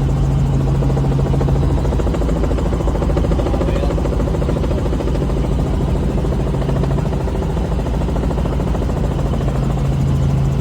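Robinson R44 helicopter in flight: the steady drone of its rotor and piston engine, with a strong low hum under a fast, even beat.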